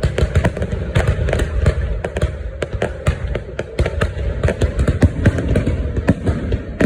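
Fireworks going off in a dense, continuous barrage: many sharp bangs and crackles a second over a deep rumbling boom.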